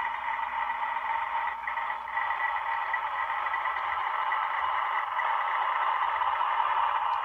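Sound decoder in an HO-scale ALCO C424 model locomotive playing a steady diesel engine running sound through its small, tinny speaker.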